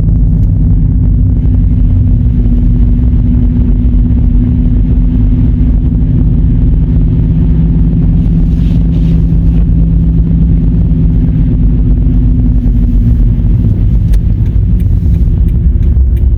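Car engine running at a steady pitch under a heavy low rumble of the car moving through deep snow. The engine note fades out about thirteen seconds in, while the rumble goes on.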